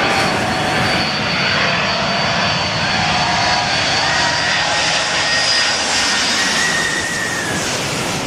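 Airliner passing low overhead on its landing approach: a loud, steady engine roar with a high turbine whine and tones that slowly shift in pitch.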